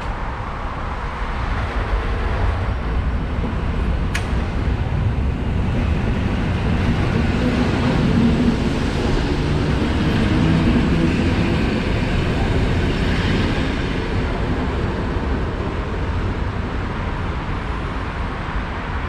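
EN57 electric multiple unit pulling out and running past, its rumble building to loudest about halfway through, then easing off as it leaves. A single sharp click sounds about four seconds in.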